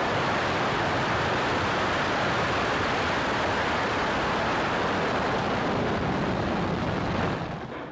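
Falcon 9 rocket's nine first-stage Merlin engines during liftoff and climb: a steady, even rushing noise that fades out near the end.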